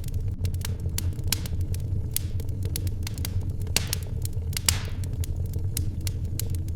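Wood fire crackling in a fireplace: frequent irregular sharp pops over a steady low rumble, with one louder pop and a brief hiss a little before five seconds in.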